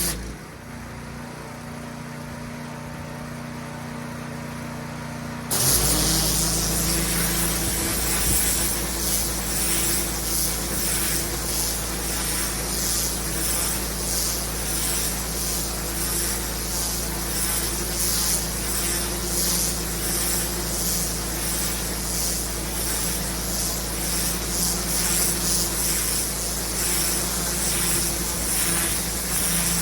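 Engine-driven pressure washer cleaning block paving. For the first five seconds or so the jet is off and only the machine's engine hum is heard; then the spray cuts back in sharply as the trigger is pulled. The hiss of water blasting the paving runs on steadily with a regular wavering over the engine hum.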